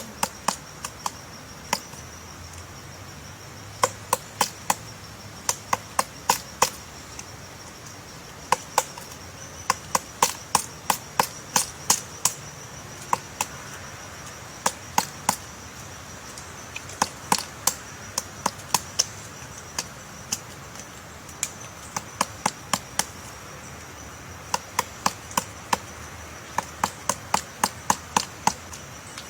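Common flameback woodpecker chiselling out a nest hole in tree wood: sharp, dry pecks in quick clusters of a few strokes, with short pauses between clusters. A steady high-pitched whine runs underneath.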